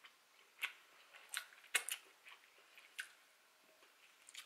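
Quiet close-miked chewing: a person eating, with a few sharp, irregular wet mouth clicks, the strongest a little under two seconds in.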